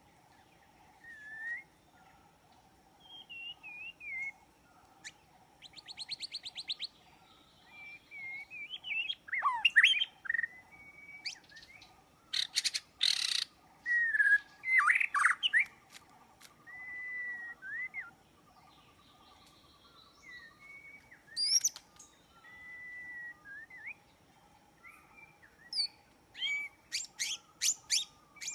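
Birds chirping and calling: short whistled notes that glide up and down, mixed with several rapid trills, coming irregularly throughout, over a faint steady drone.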